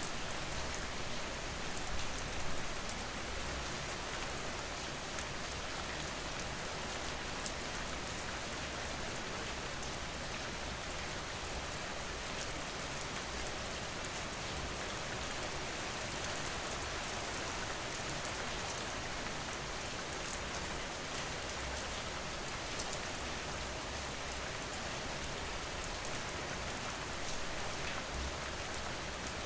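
Steady rain falling on a surface, a continuous even patter of raindrops.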